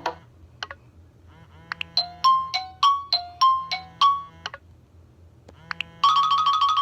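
iPhone 3GS ringtone: a short chime melody of about eight bell-like notes alternating between two pitches. Near the end another ringtone starts, a loud, fast-repeating trill of one tone.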